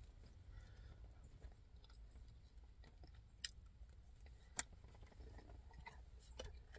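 Near silence: quiet chewing of food over a low steady rumble, with two small sharp clicks about a second apart midway.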